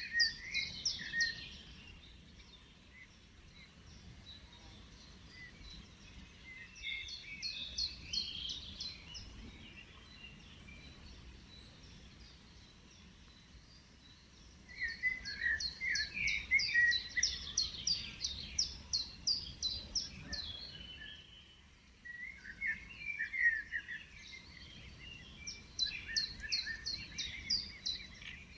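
A songbird singing in repeated phrases: a run of quick high notes that breaks into lower twittering, four bouts of several seconds each with short pauses between, over a faint low background rumble.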